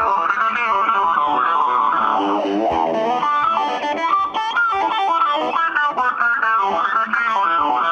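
Electric guitar played through effects, a stretch of quick, changing single notes and bends with no singing.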